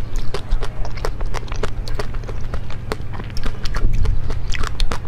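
Close-miked crunching and chewing of a mouthful of frozen chocolate with a hard pink coating: a rapid, irregular run of sharp crunches, several a second.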